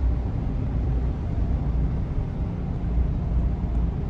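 Steady low rumble of a car on the move, heard from inside the cabin: engine and road noise with no distinct events.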